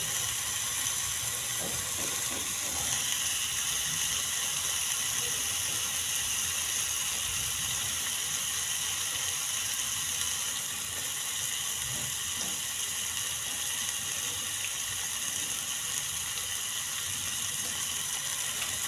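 Chicken pieces frying in a pan with a little water added, a steady sizzling hiss.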